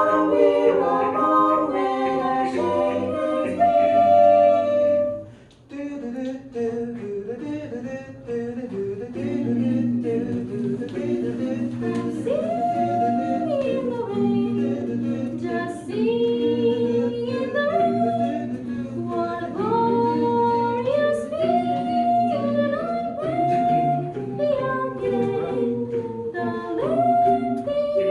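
An a cappella vocal group singing in several parts. A full held chord lasts about five seconds and breaks off briefly. Then a lead line slides up and down between notes over a steady sung bass.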